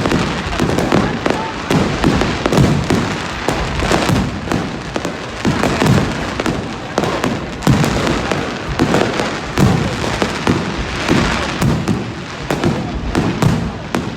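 Fireworks going off in quick succession: many overlapping bangs and low booms with no pause.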